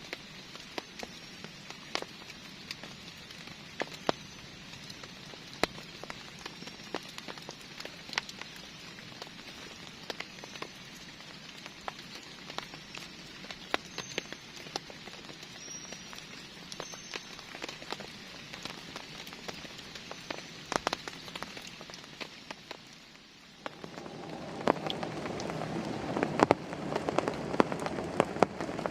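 Heavy rain falling steadily, with many sharp individual drops pattering on a surface. About 23 seconds in the sound dips for a moment, then comes back louder and fuller.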